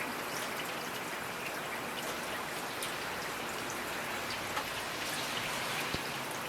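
Steady rainfall, a constant hiss of rain with individual drops ticking on a surface.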